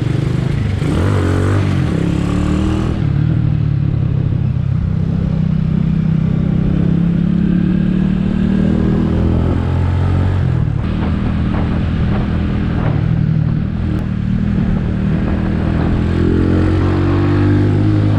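Skygo Earl 150's single-cylinder CG150 engine, fitted with a 28mm carburetor, running under light throttle while riding in traffic. The engine note climbs and falls several times with gentle acceleration and easing off.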